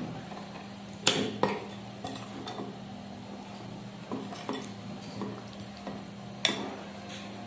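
Dishes and cutlery clinking and scraping as a meal is eaten, in scattered irregular knocks, with the sharpest clinks about a second in and again near the end. A steady low hum runs underneath.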